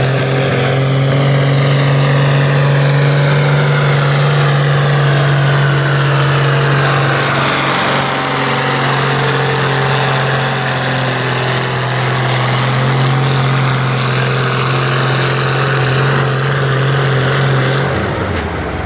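Farm tractor engine held at full throttle while pulling the weight sled down the track, its note steady and loud for most of the pull and then dropping away near the end as the pull finishes.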